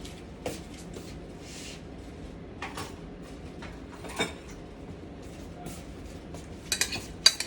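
Kitchen handling sounds as a spoon is fetched: scattered knocks and clicks of a cupboard or drawer and utensils, ending in a quick run of sharp metal-on-dish clinks.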